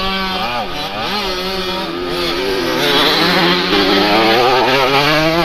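Motocross motorcycle engines revving, their pitch rising and falling repeatedly, louder from about three seconds in.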